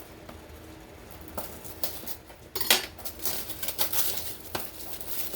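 Light clinks and clatter of crockery and utensils being handled, with some rustling: a scattered run of short knocks that starts about a second in, the loudest around the middle.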